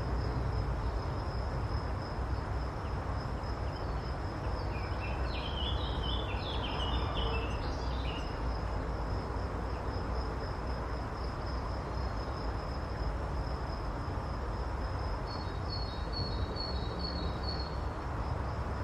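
An insect, likely a cricket or bush-cricket, trills steadily and high over a low outdoor rumble. Short bursts of chirping cut in twice, for a few seconds near the middle and again near the end.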